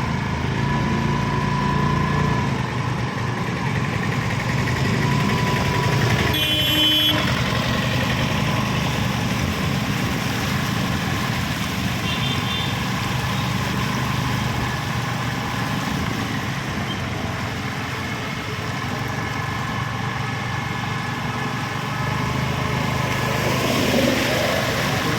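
Motor vehicle engine running steadily amid road traffic, with a short horn blast about six and a half seconds in.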